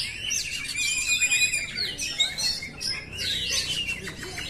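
Oriental magpie-robin (kacer) singing a continuous, varied song of whistled notes, sweeping glides and a rapid trill about a second in.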